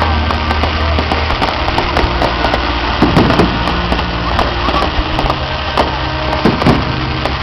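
Fireworks crackling, with a dense run of small sharp pops and a few heavier thumps about three seconds in and again near the end, over a steady low hum.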